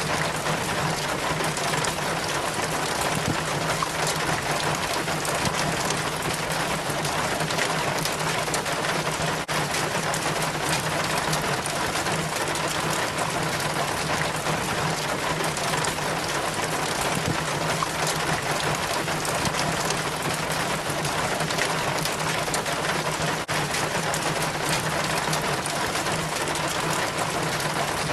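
Rainwater steadily trickling and splashing down a rain chain from the gutter, over a low steady hum.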